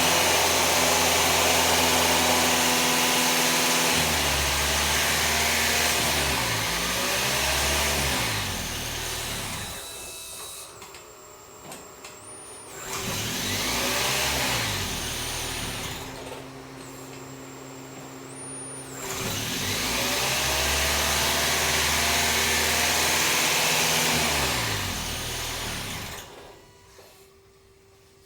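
Intake noise of a Toyota Aqua G's 1.5-litre four-cylinder hybrid engine breathing through a Zero1000 aftermarket air cleaner at full throttle: a loud steady hiss and drone held at constant high revs. The revs fall away and pick back up twice, and the engine stops near the end.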